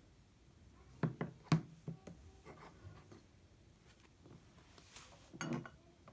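Small knocks and clicks of things being handled and set down on a desk, with a cluster of sharp taps about a second in and a short rustle near the end.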